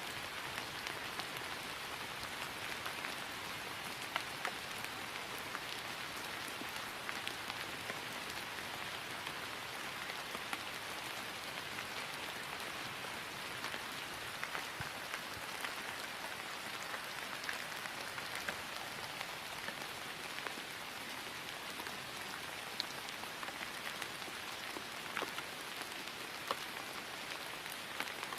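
Steady rain falling on grass: an even hiss with scattered individual drops ticking through it.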